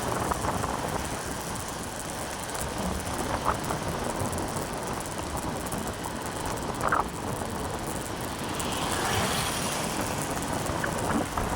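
Steady running and road noise of a motorcycle on the move, with a couple of brief high chirps partway through.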